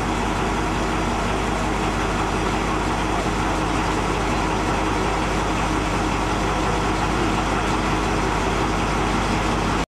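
A narrow-gauge train under way: the steady drone of its diesel locomotive over the running noise of the train. The sound cuts off suddenly near the end.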